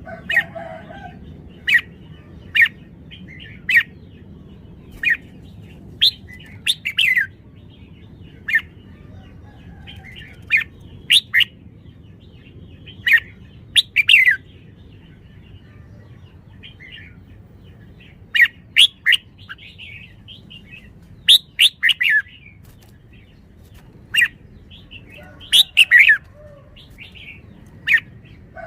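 Red-whiskered bulbul calling: short, sharp chirping notes at irregular intervals, sometimes in quick pairs or clusters, over a faint low background hum.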